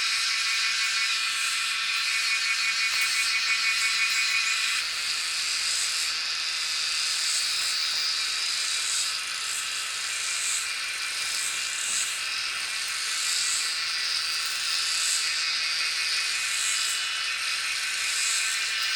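A steady, high-pitched buzzing drone, with a faint pulse in its highest part about once a second from about a third of the way in.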